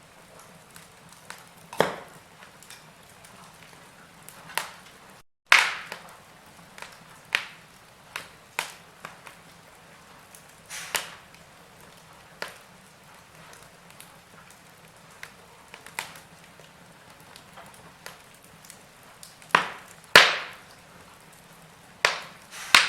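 Wood fire in a fireplace crackling, with irregular sharp pops every second or so over a faint hiss. The sound drops out to silence for a moment about five seconds in.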